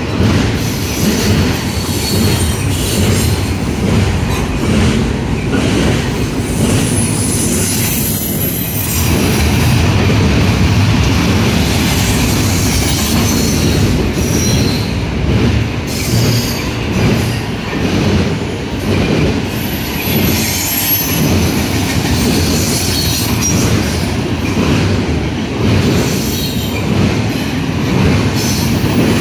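Double-stack intermodal freight train's container well cars rolling past: a steady rumble of steel wheels on rail, with repeated clacks over rail joints and thin, high squeals from the wheels coming and going.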